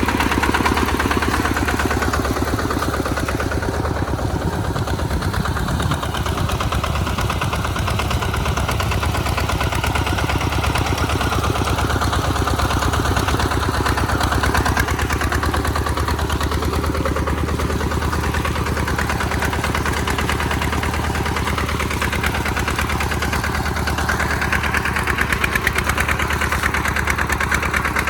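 Tractor's RT140 Plus single-cylinder diesel engine running steadily while plowing in mud, its note brightening a little near the end.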